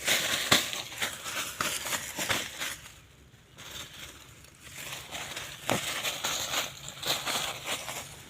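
Irregular crackling and rustling, like dry leaves or brush being disturbed, in two bouts with a short lull about three seconds in.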